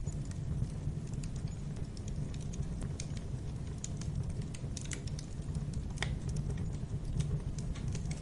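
Wood fire crackling in a fireplace: irregular small pops and snaps over a steady low rumble of the burning logs, with one sharper snap about six seconds in.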